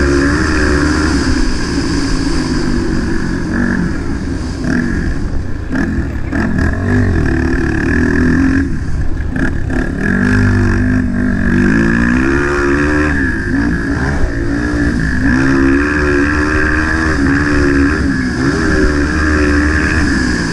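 Motocross dirt bike engine revving hard, its pitch rising and falling again and again as the throttle is worked and gears change, with a steady hiss of wind or rushing air over it.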